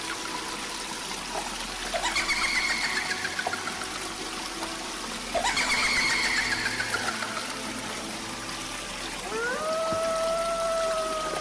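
Water trickling steadily, with two descending pulsed calls about three seconds apart, then a long call that rises and holds a steady pitch near the end.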